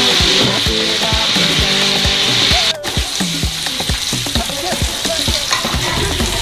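Food frying and sizzling in hot oil and butter in a pan, a steady hiss, over background music with a steady beat.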